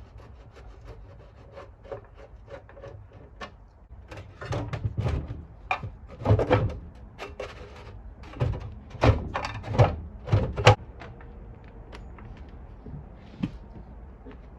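Knocks, clunks and light clicks of hands and tools working on a partly dismantled engine, busiest and loudest in the middle stretch, then thinning out to a few light taps.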